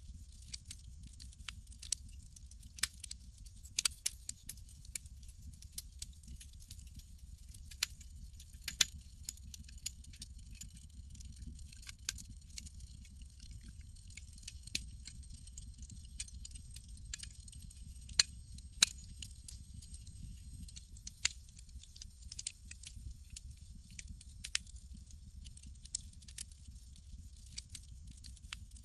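Campfire crackling: irregular sharp pops and snaps, a few of them louder, over a low steady rumble.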